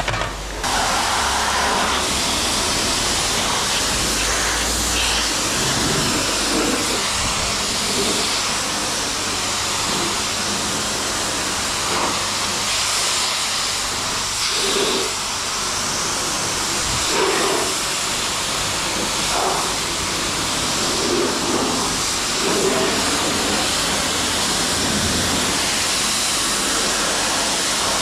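High-pressure car-wash spray wand blasting water onto a car, a steady loud hiss that shifts slightly in tone as the spray moves over the bodywork.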